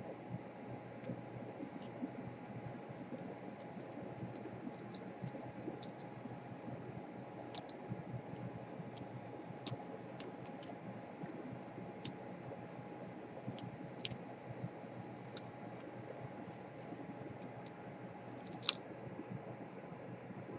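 Scattered light clicks and taps of small tools and parts being handled while a laptop is taken apart, over a faint steady hum. The clicks come at irregular intervals, the sharpest one near the end.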